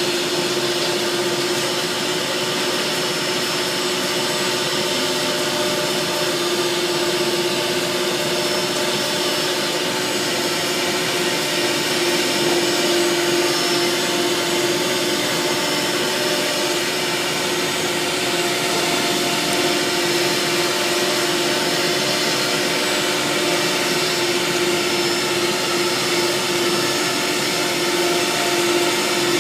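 Woodworking CNC engraving machine running steadily: a continuous machine noise with a steady whine.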